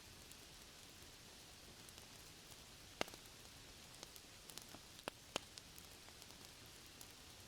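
Faint steady rain hiss with the occasional sharp pop of a crackling wood fire, one about three seconds in and two more just after five seconds.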